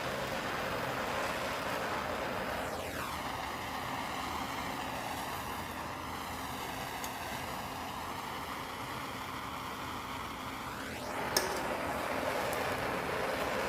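Steady hissing rush with no speech. Its tone sweeps down and then back up through the middle, and there is one sharp click near the end.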